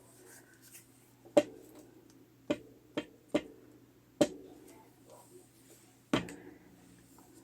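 Six sharp taps and clacks at irregular intervals, as of craft tools and supplies being set down and handled on a desk, over a faint low steady hum.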